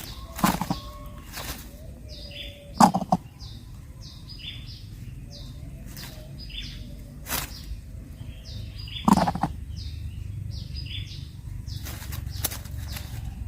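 Coucal nest: three short, loud, harsh bursts, about half a second in, near three seconds and near nine seconds, from the nest birds. Under them run faint, quick high chirps repeated every half second or so.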